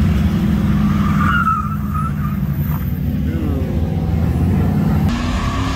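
Ford Mustang GT's V8 engine running loud at steady high revs, with a short tire squeal about a second and a half in.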